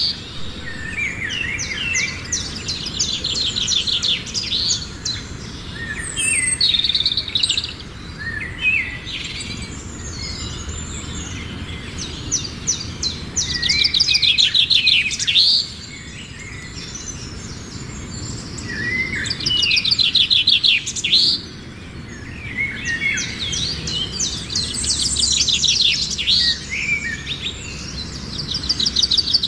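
A flock of birds chirping and chattering, in dense bursts of rapid high calls and trills that come and go every few seconds, over a steady low background noise.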